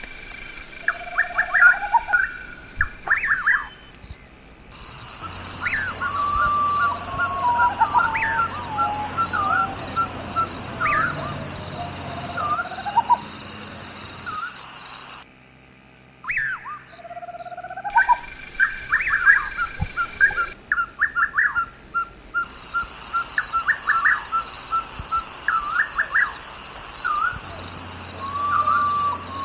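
Outdoor chorus of wild birds calling over a steady high insect drone. The calls are short rising whistles and quick trains of evenly spaced notes, repeated throughout. The sound breaks off abruptly a few times.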